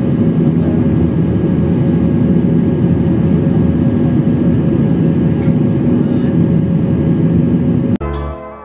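Airbus A321 cabin noise: the steady drone of the jet engines and airflow with a low hum, heard from inside the cabin. About eight seconds in it cuts off suddenly and music with a beat begins.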